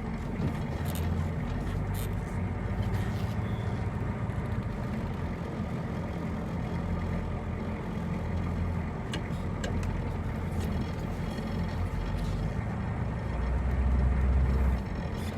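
1986 Chevrolet C10's 6.2-litre diesel V8 running as the truck drives, heard from inside the cab as a steady low drone with road noise and a few scattered light clicks. The drone swells louder for a second or so near the end.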